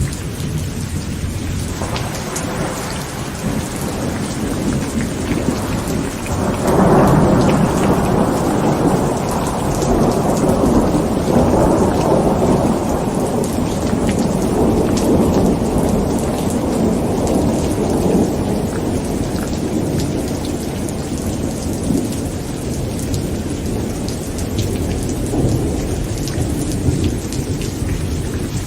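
Heavy rain drumming on a tent, with many fine drop ticks throughout. About seven seconds in, a thunder rumble breaks in suddenly and rolls on for over ten seconds before slowly fading.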